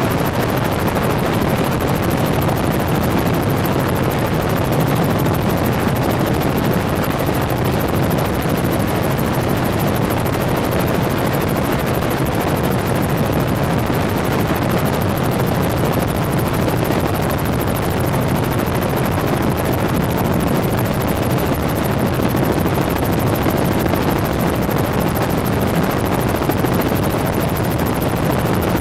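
Tour helicopter in flight: a steady, loud drone of rotor and engine that holds evenly throughout.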